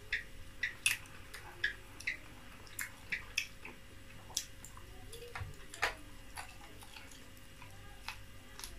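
A person chewing, with wet lip smacks and mouth clicks: short, irregular clicks about two a second at first, fewer in the second half, the loudest one near the middle.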